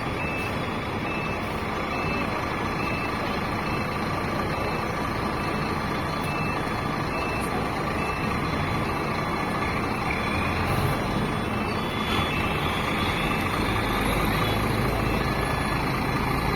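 Reversing alarm beeping about once a second over the steady running of a Scania K360 bus's diesel engine; the engine grows louder and deeper in the second half.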